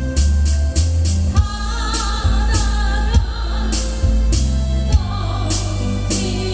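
Song with a singer over a backing track of a steady drum beat and bass. The vocal line comes in about a second and a half in, pauses, and returns near the end.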